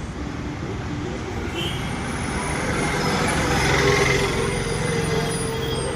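Train running past, a steady rumble that grows louder to a peak about four seconds in, with a few high steady tones over it.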